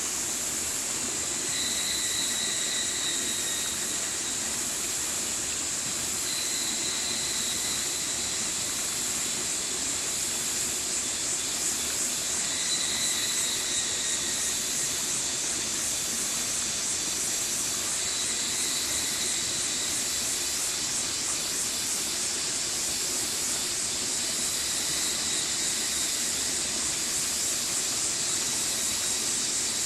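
Stream water flowing steadily, with a high, short call repeating roughly every five or six seconds over the rushing.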